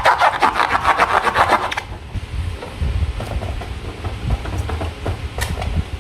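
Slime being worked by hand: quick rasping, crackling strokes for about the first two seconds, then quieter squishing with scattered small clicks and one sharper stroke near the end.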